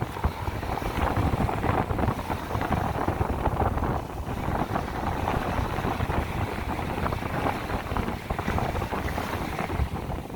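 Strong sea wind buffeting the microphone in a steady, rumbling rush, with the sea washing on the shore underneath.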